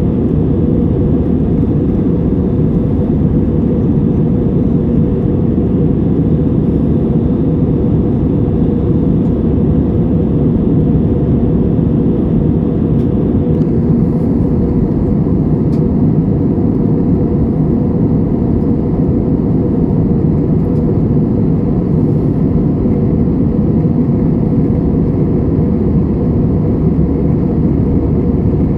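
Airbus A320-200 jet engines and airflow heard from inside the passenger cabin as a steady, deep, loud noise.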